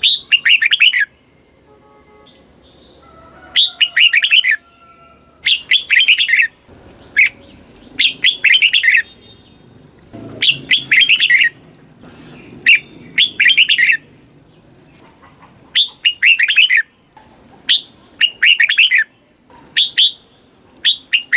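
Red-whiskered bulbul singing the same short, quick warbled phrase over and over, about one phrase every two seconds.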